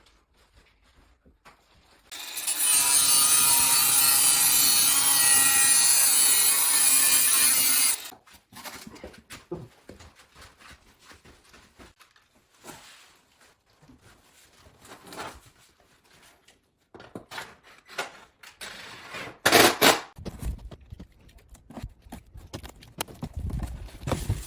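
A power tool runs steadily for about six seconds, cutting, then stops abruptly. Scattered knocks and clatter from handling materials follow, with one loud knock in the second half.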